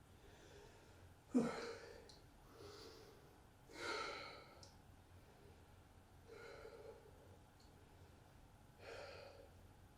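A person's breath released with a sudden, loud exhale after a long breath hold, then three softer breaths in and out, each about two and a half seconds apart, as the breathing recovers.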